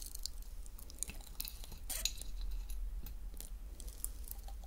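Close-miked chewing of crisp dried fruit: a run of small crunchy crackles and wet mouth clicks, busiest around two seconds in.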